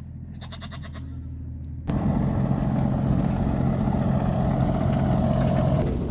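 A goat bleats briefly in the first second over a low, steady engine hum. About two seconds in, a much louder engine sound cuts in suddenly and runs on steadily.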